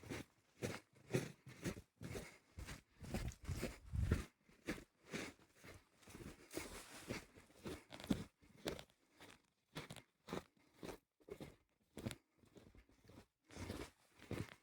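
Footsteps crunching through fresh snow, a steady walking pace of roughly two steps a second.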